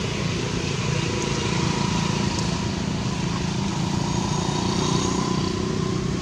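Steady low rumble of a running engine, with faint high tones over it.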